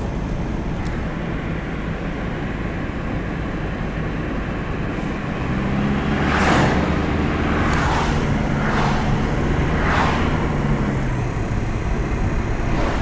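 A motor vehicle's engine hum over a steady low rumble, swelling for a few seconds in the middle, with four short hissing rushes between about six and ten seconds in.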